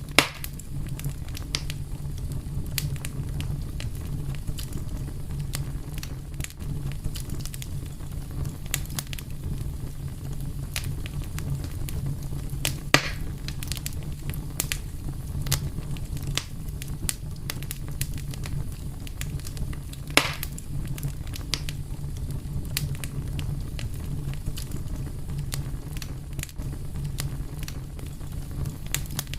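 A fire crackling steadily over a low rumble, with many small clicks and three louder pops: one right at the start, one about 13 seconds in and one about 20 seconds in.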